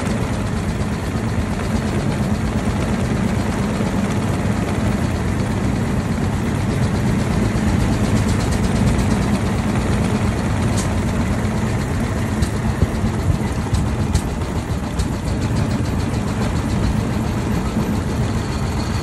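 Single-cylinder engine of a 1903 Cadillac running steadily as the car moves slowly in traffic, heard from the driver's seat, with a few sharp clicks or rattles in the middle.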